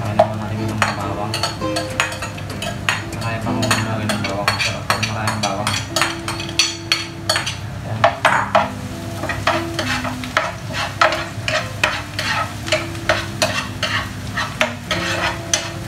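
Chopped onion and garlic sizzling in hot oil in a frying pan, with a spatula scraping and stirring across the pan in repeated strokes.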